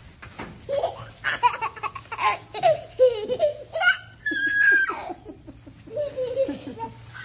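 A young child laughing hard in repeated bursts, with a high held squeal a little past four seconds in.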